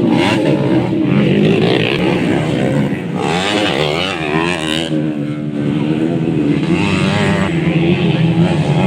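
Several modified underbone motorcycles racing on a motocross track, their small engines revving up and down as the riders work the throttle, with one passing close about three to five seconds in.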